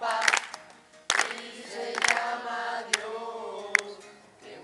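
A group of voices singing or chanting together, with a sharp clap about once a second.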